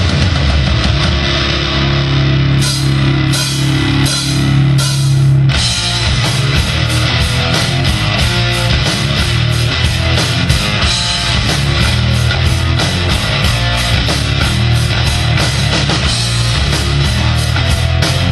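Rock band playing an instrumental intro on distorted electric guitar and drum kit. About three seconds in, a held chord is punctuated by four cymbal hits; then, about five seconds in, the full band kicks into a fast, steady beat.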